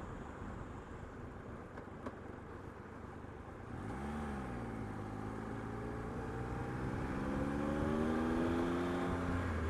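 Motorcycle engine under wind noise, heard from a microphone inside the rider's helmet. About four seconds in, the engine note comes up clearly and climbs steadily in pitch as the bike accelerates, then drops suddenly near the end, as at a gear change.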